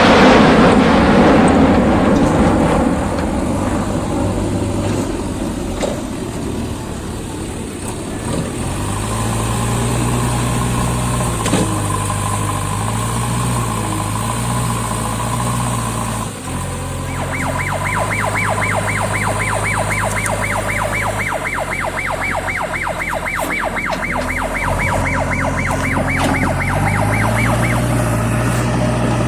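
Diesel engine of a JCB 3DX backhoe loader running, its note stepping up and down with the work. A loud rush of noise fades over the first few seconds. From about halfway, a high, fast-pulsing warning tone sounds for roughly ten seconds and then stops.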